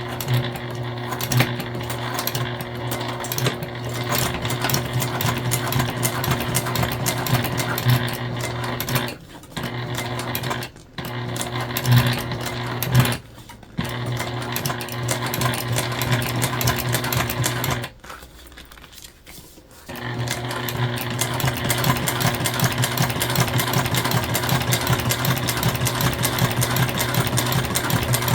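Sewing machine running steadily while top-stitching through jelly vinyl, with a few brief pauses and one stop of about two seconds past the middle before it starts again.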